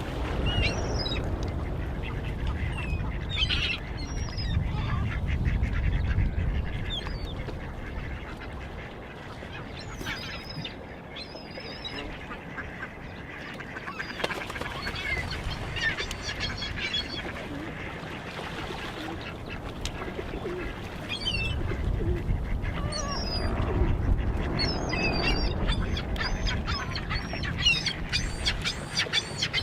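A flock of waterbirds calling, many short overlapping calls, over a low rumble that swells at the start and again near the end.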